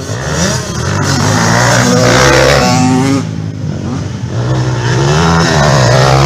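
Small motorcycle engine revving under acceleration: the pitch climbs, drops off about three seconds in, then climbs again.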